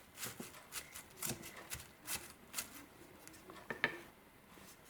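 Fresh lemon verbena leaves being handled and dropped into a pot: irregular light rustling and crackling, with one sharper click a little before the end.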